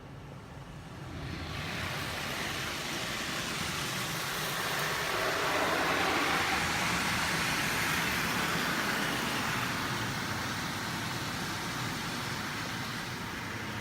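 Belanger Freestyler automatic car wash working over the car, heard from inside: a steady rushing noise that swells up about a second in and is loudest in the middle.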